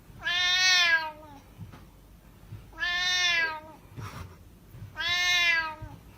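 Domestic cat meowing three times, long drawn-out meows about two seconds apart, each rising slightly and then falling away.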